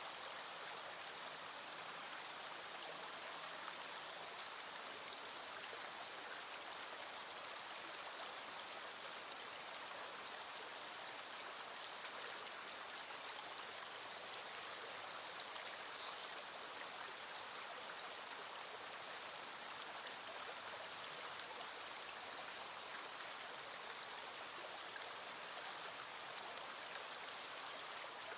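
A small mountain stream flowing steadily: a continuous, even rush of running water.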